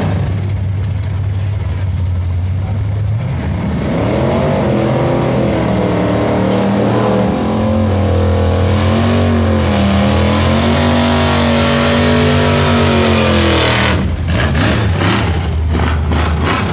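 Drag-race engine pulling hard down an eighth-mile run. A steady low drone gives way, about three seconds in, to a loud engine note that climbs and dips several times. Near the end comes a quick run of short, sharp bursts of noise.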